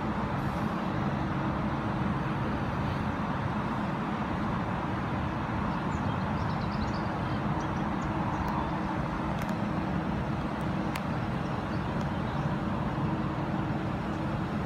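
London Midland class 350 electric multiple unit arriving at the platform, a steady electric hum with a few faint high clicks.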